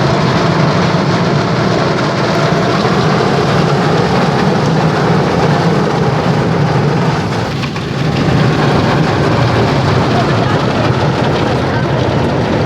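Car wash water spray hitting a car: a loud, steady rain-like hiss with a brief dip about eight seconds in.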